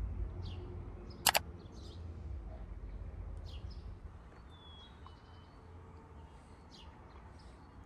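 Small birds chirping now and then, with one sharp click about a second in. A low background rumble fades over the first few seconds.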